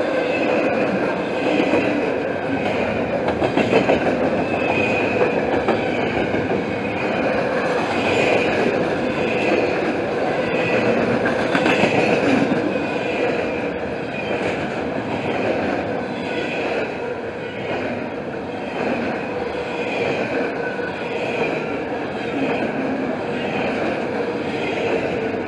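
Freight train of double-stack container cars rolling past at close range: a steady rumble of steel wheels on rail, with squealing wheel flanges wavering above it and occasional clicks over rail joints.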